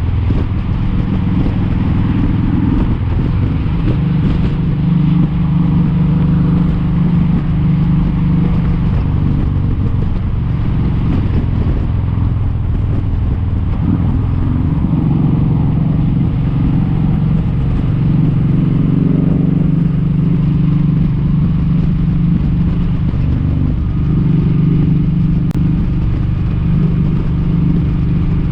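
Kawasaki Vulcan 1700 Vaquero's V-twin engine running at highway speed under steady throttle, with road and wind noise. The engine note dips and comes back a few times as the throttle changes.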